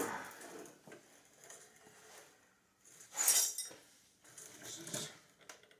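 Metal car-door hardware clinking and scraping as it is handled and worked in and out, in two short clatters: one about three seconds in and another near five seconds in.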